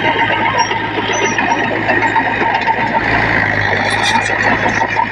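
Heavy diesel earthmoving machinery running: a steady engine hum with a dense mechanical clatter over it.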